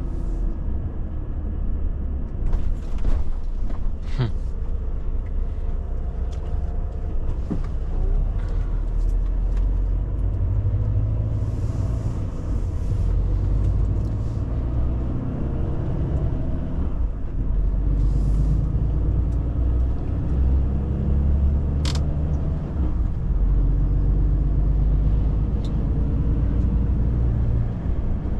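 Volvo FH truck's diesel engine and road noise while driving: a steady low rumble with engine pitch rising and falling, and a couple of sharp clicks.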